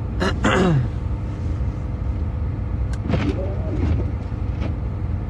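Steady low rumble of a truck running, heard inside the cab, with two short bits of untranscribed voice, one just after the start and one about three seconds in.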